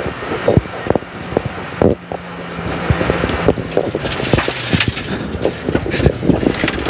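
Toyota Yaris SR rally car heard from inside the cabin: the engine runs steadily under many short knocks and rattles. A little after halfway the engine note drops to a lower pitch as the car slows for a chicane.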